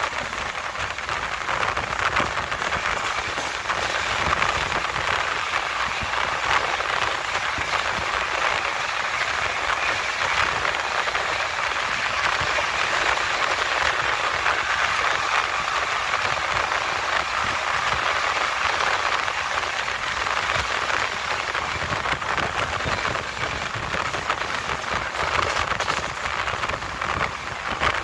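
Steady rush of wind and wheel-on-rail noise from a passenger train running at high speed, heard at its open door. The noise rises a little in the middle as a container freight train passes on the next track.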